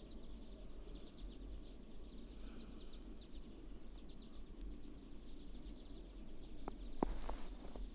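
Quiet outdoor ambience of faint, short, high chirps from small birds over a low steady hum, with two sharp clicks close together about seven seconds in.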